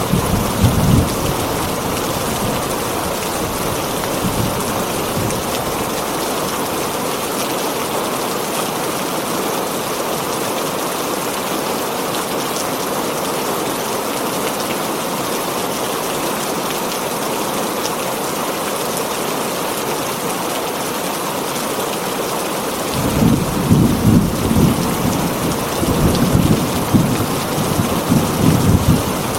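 Heavy rain falling steadily on a tin roof, a dense even hiss. Thunder rumbles low underneath at the very start and again through the last several seconds.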